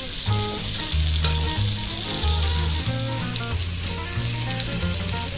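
Tandoori-marinated chicken pieces frying in melted butter on a tawa griddle, with a steady sizzle. Background music with a repeating bass line plays underneath.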